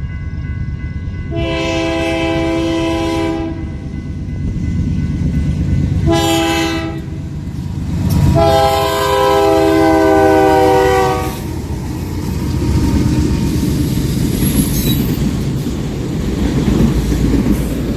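A locomotive horn sounds a long blast, a short one and a final long blast, the pattern of a grade-crossing signal; the last blast dips slightly in pitch as the train passes. Under it runs the heavy rumble of the train, with the cars' wheels clattering over the rail joints after the horn stops.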